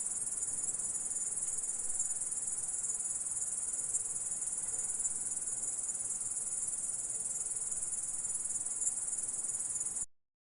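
Grasshopper stridulating: a steady, high-pitched buzzing trill that cuts off suddenly near the end.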